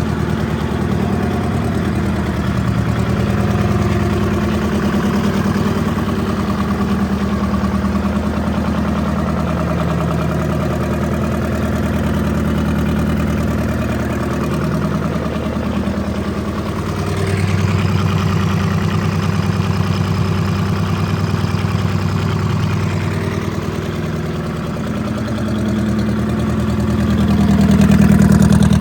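Detroit Diesel 4-53 two-stroke four-cylinder diesel engine running steadily. Its speed shifts about two-thirds of the way through and climbs near the end.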